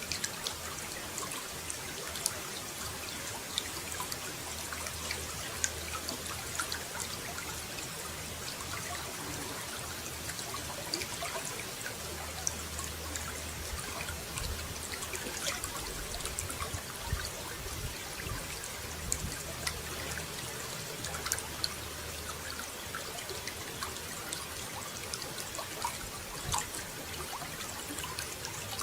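Running water trickling and splashing steadily, with many small droplet ticks. A faint low hum comes and goes underneath.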